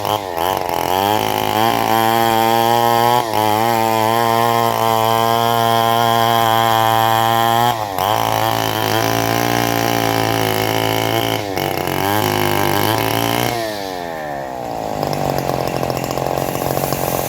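Engine of a homemade bandsaw running hard while it saws a mahogany log, its pitch dipping briefly every few seconds. About 13 seconds in the engine winds down and settles to a lower idle.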